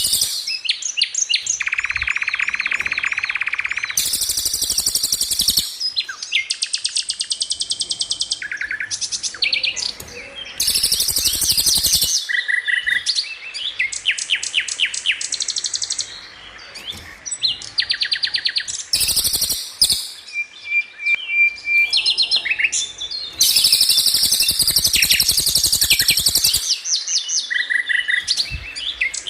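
Songbird masteran track: a string of spliced bird song recordings of fast rattling trills and sharp repeated chirps, each phrase starting and stopping abruptly. It is used to teach caged songbirds such as the white-rumped shama these rolls and 'shot' notes.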